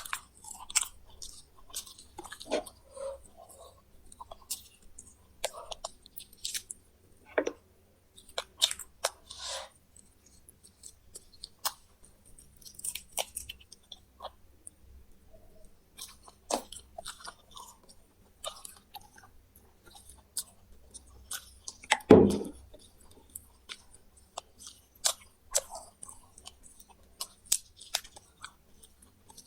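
Close-up chewing of fried quail, with small bones crunching in irregular bites. About three-quarters of the way through there is one louder, duller thump.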